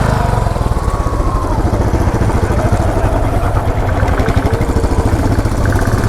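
Motorcycle engine running steadily, with a rapid, even pulse.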